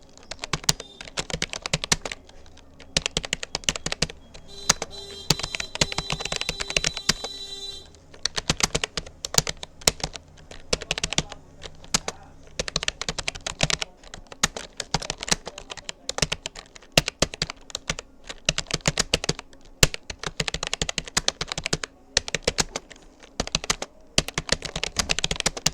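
Keys of a Rapoo computer keyboard being typed on in quick, uneven runs of clicks with short pauses between them. A separate steady pitched sound is heard for a few seconds in the first third.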